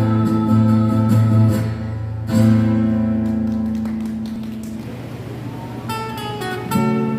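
Acoustic guitar music: strummed chords that ring out and fade, then picked notes and a fresh strummed chord near the end.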